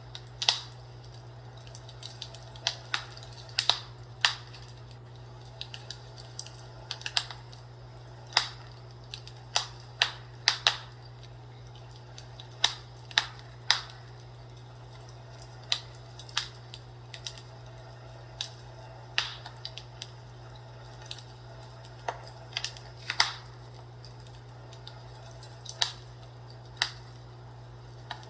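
Fireplace crackling: irregular sharp pops and snaps, one to a few every second or so, over a steady low hum.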